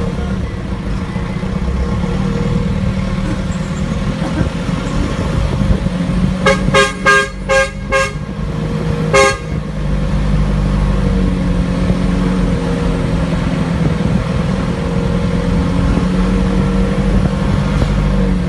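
Vehicle horn honked in a quick string of about six short toots, then one more a second later, over a motor vehicle engine running steadily.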